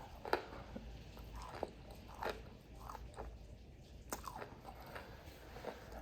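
Close-miked chewing of crispy fried food: irregular crisp crunches, roughly one a second, between quieter chewing.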